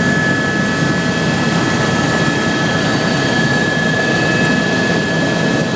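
Helicopter in flight heard from on board: steady, loud rotor and engine noise with a constant high whine.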